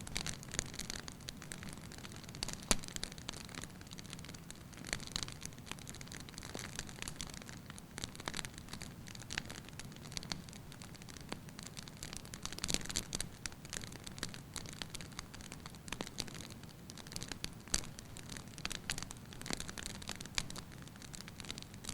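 Wood fire crackling in a fireplace: irregular sharp pops and snaps from the burning logs over a steady soft hiss and low rumble of the flames.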